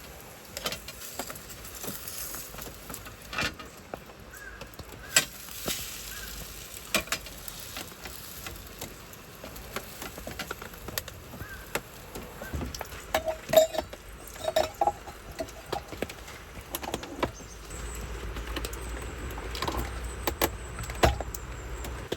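Scattered clicks, knocks and light rattles of objects being handled, with a few sharper knocks in the second half.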